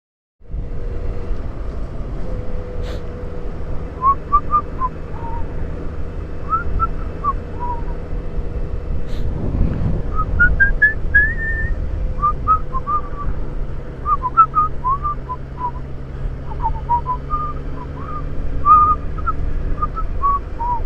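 A person whistling a tune in short rising and falling notes, starting about four seconds in, over the steady drone of a motorcycle engine and wind noise.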